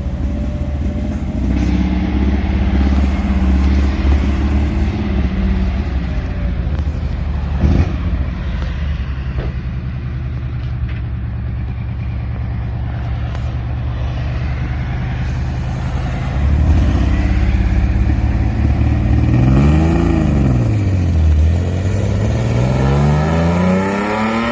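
Dual muffler exhaust of a Nissan Fairlady Z in Z-G spec, running steadily at low revs. Later it gets louder: the revs rise and fall once, then climb again near the end. There is one short knock partway through.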